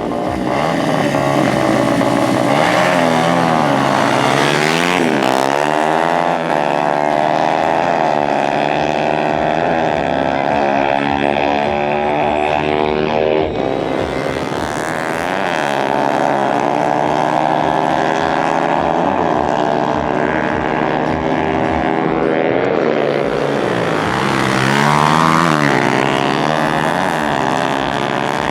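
Dirt bike engines running at high revs, their pitch rising and falling again and again.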